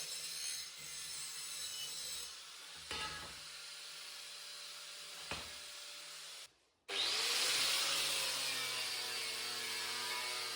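Power tool cutting and grinding steel pieces, a steady gritty hiss with a few clicks. About six and a half seconds in it breaks off abruptly, then comes back louder and steadier.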